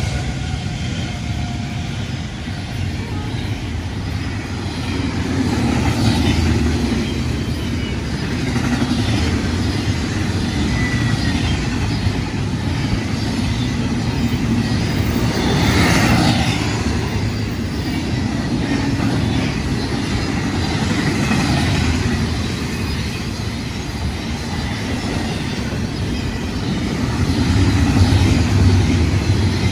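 Freight train rolling past at speed: a steady rumble of wheels on rail with a brief louder, brighter swell about halfway through.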